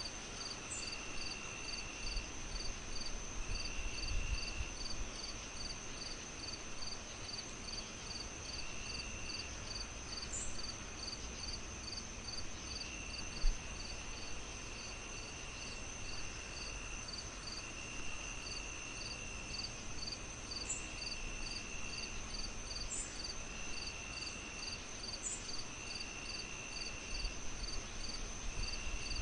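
Night chorus of crickets and other insects in several layers: a steady high trill, regular chirps about two or three a second, and a lower trill that comes in for a second or so every few seconds, all over a steady low hiss. A single sharp pop comes about halfway through.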